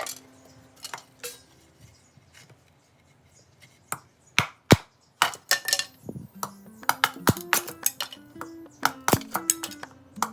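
Sharp clinks and knocks of hard objects, about a dozen, scattered irregularly, with several loud ones around four to five seconds in. Soft background music plays at the start, drops out for a few seconds and returns about six seconds in.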